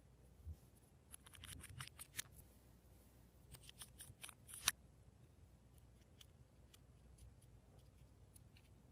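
Slime being worked by hand, giving sharp sticky clicks and crackles in two quick clusters, the loudest pop a little before the middle, then only faint scattered ticks.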